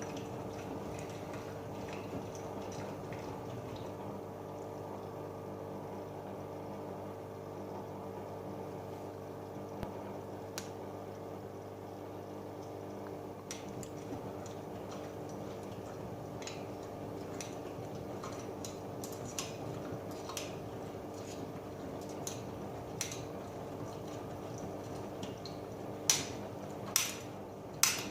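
AEG Öko-Lavamat 88840 front-loading washing machine running a wash cycle: a steady hum with water moving inside the machine, scattered light clicks, and three sharp loud clicks near the end.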